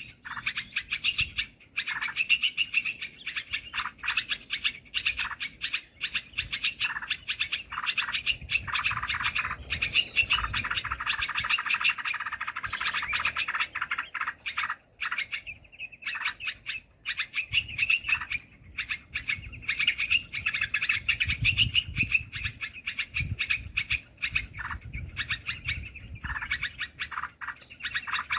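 Bulbul lure call for bird trapping: dense, rapid chirping and chattering calls, repeated almost without a break.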